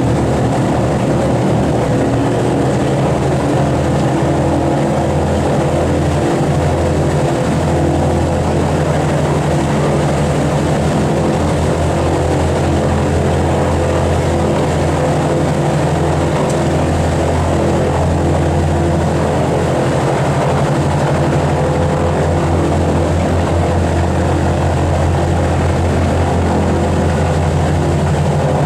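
Boeing B-29 Superfortress's four Wright R-3350 radial piston engines running steadily, propellers turning.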